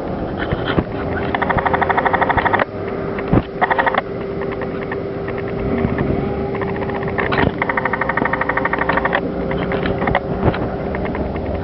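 Recumbent bicycle's freewheel ticking in quick, even runs three times as the pedals stop, over a steady hum and rolling and wind noise.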